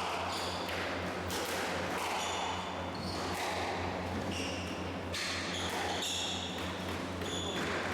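Squash rally: the ball cracking off rackets and the court walls about once every half second to second, with short high squeaks of court shoes. A steady low hum runs underneath.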